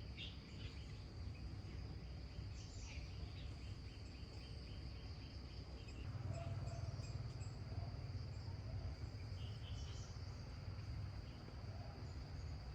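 Outdoor ambience of insects chirring steadily, a high, even drone, with bird chirps, a quick series early on and a few more later. Under it runs a low rumble that grows louder about halfway through.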